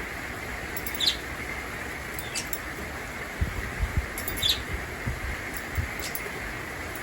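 Steady hiss of rain with a budgie giving a few short chirps, the clearest about a second in and again near the middle. A few short low thuds come in between.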